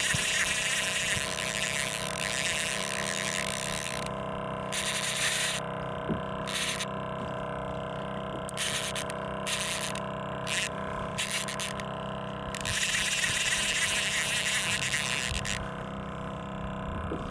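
Fishing reel whirring in on-and-off stretches during a fight with a hooked fish, over a steady hum.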